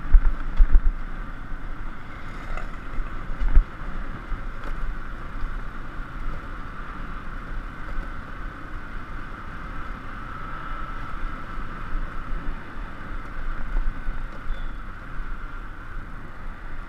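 Motorbike riding along, its engine and road noise steady, with a few heavy low thumps near the start and one about three and a half seconds in.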